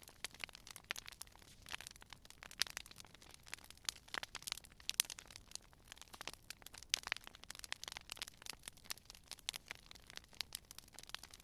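Campfire crackling: irregular sharp pops and snaps of burning wood, several a second, over a soft hiss.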